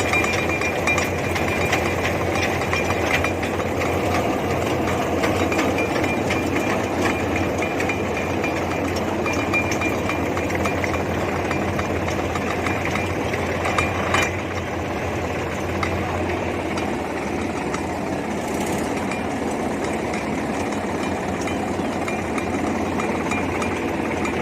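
Tractor diesel engine running steadily at idle, with one brief sharp knock a little past halfway.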